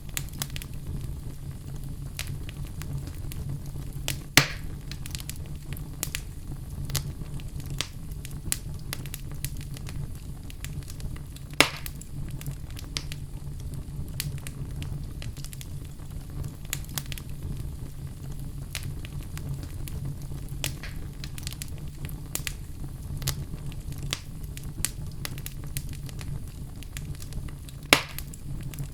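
Wood fire in a fireplace crackling, with a steady low rumble and frequent small snaps, and three louder pops spread through.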